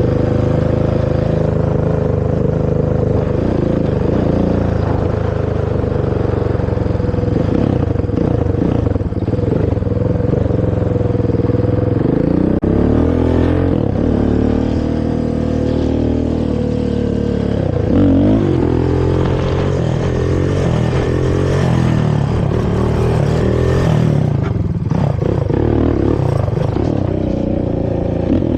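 Honda TRX450R quad's single-cylinder four-stroke engine through its stock exhaust, running steadily for the first few seconds and then revving up and falling back again and again as the throttle is worked while riding.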